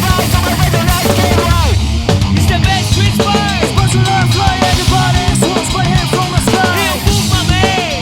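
Punk rock band playing: drum kit, bass and guitars together, with several sliding notes that arch up and fall in pitch.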